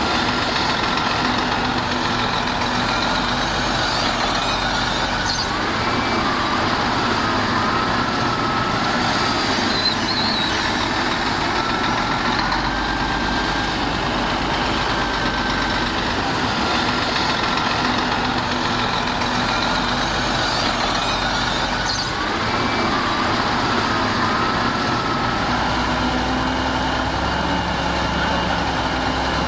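Heavy diesel earth-moving machinery running steadily, with a wavering high whine that comes and goes over the engine noise.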